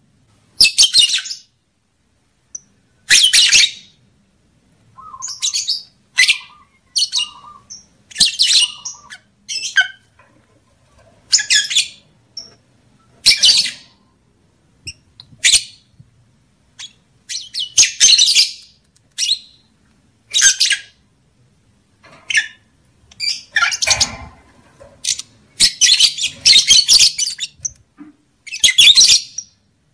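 Lovebird giving shrill chattering calls in short bursts of about half a second to a second, repeated at irregular gaps: breeding calls used as a lure sound to bring lovebirds into mating condition.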